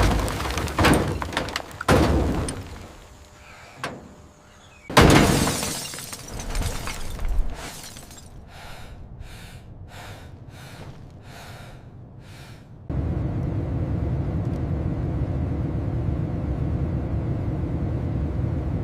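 Heavy crashing and breaking impacts, the loudest crash about five seconds in, then a run of evenly spaced scraping strokes about two a second, then a steady low rumble that starts suddenly after about thirteen seconds.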